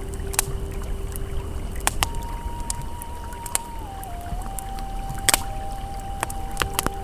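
Campfire crackling with scattered sharp pops over a steady rush of flowing river water. A soft, held ambient tone sounds underneath, stepping up in pitch about two seconds in.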